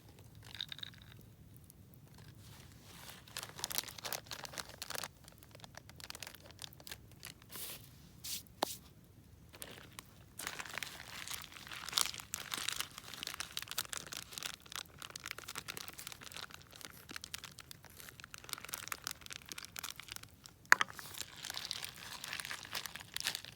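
Campfire crackling and popping, sparse at first and busier from about halfway through, with one loud pop near the end.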